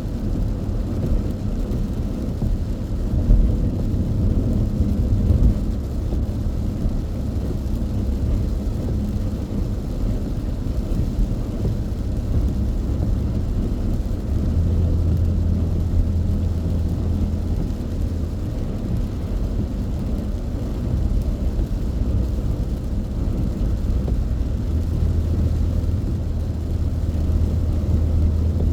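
Car driving at speed on an expressway, heard from inside the cabin: a steady low rumble of tyres and engine. A deeper, steadier drone comes in about halfway through and again near the end.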